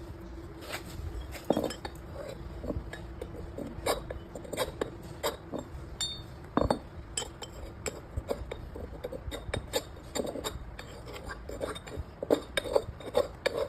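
Irregular metallic clinks and taps, hard objects knocking on metal, some single and some in quick clusters, thicker near the end. A faint steady hum runs under the first half.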